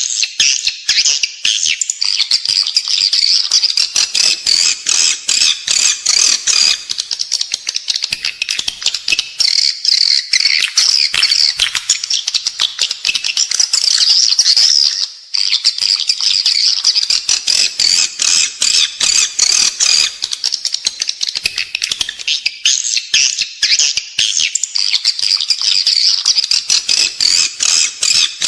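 Edible-nest swiftlet calls: a dense, continuous chatter of rapid high chirps and clicking twitters, with a brief break about halfway through. This is the indoor lure call played in swiftlet houses to draw the birds in to roost and nest.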